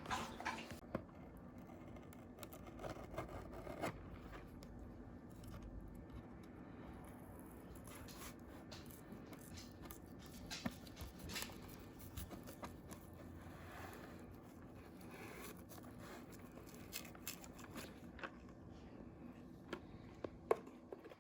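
Faint scraping and scattered small clicks of a cardboard macaroni and cheese box being carefully pried open by hand.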